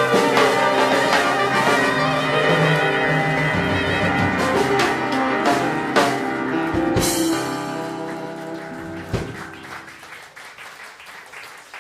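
Jazz band with trumpet and trombone playing the closing bars of a swing tune, with drum and cymbal hits, ending on a held final chord that rings and dies away. Light applause follows near the end.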